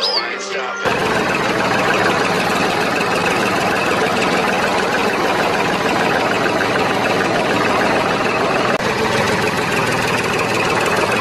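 An engine or motor running steadily. It starts abruptly about a second in and keeps an even, dense rattling sound.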